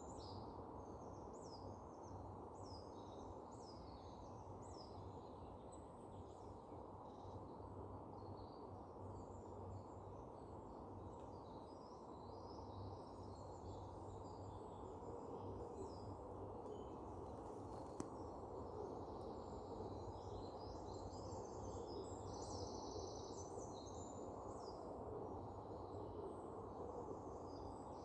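Small birds chirping and calling with many short high notes throughout, over a faint steady low background noise, with one sharp click about two-thirds of the way through.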